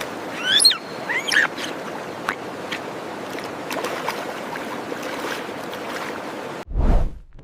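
A steady wash of water with scattered small clicks. Two short high calls that bend up and down come about half a second and a second and a half in, and a brief low rumble comes near the end.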